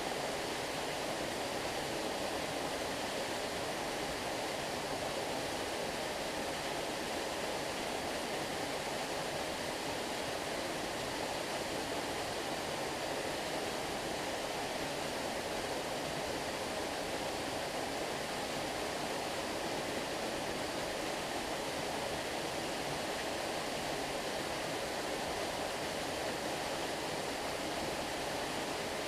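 Flowing stream water rushing steadily, an even, unbroken noise with no separate splashes.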